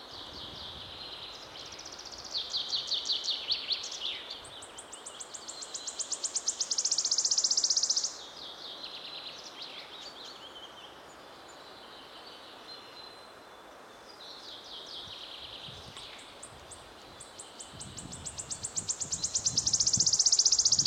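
A bird singing repeated high, rapid trills over steady outdoor background noise. Two trills speed up and swell loudly before cutting off, one midway and one near the end.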